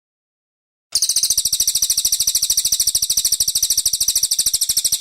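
Cililin (pygmy bushtit) song: a rapid, even, high-pitched trill of about a dozen notes a second. It starts suddenly after silence about a second in and cuts off abruptly at the end, as in an edited, looped training recording.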